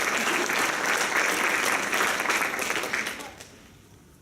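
Audience applauding: many hands clapping together, fading out about three seconds in.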